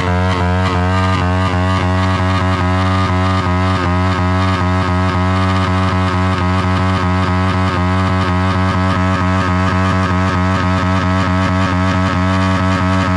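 Pit bike's single-cylinder engine held at wide-open throttle with no load, screaming at one steady high pitch against its rev limiter. Small regular dips in loudness suggest the limiter cutting in.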